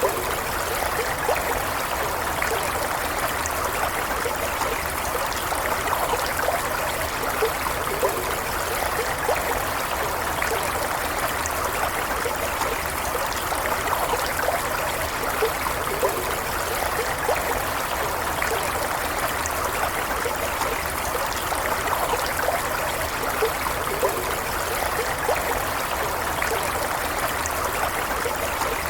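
Stream water flowing steadily, an even splashing and trickling with small bubbling flickers throughout.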